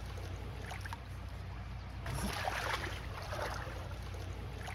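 Kayak paddle strokes splashing in river water, a few times about halfway through, over a steady low rumble.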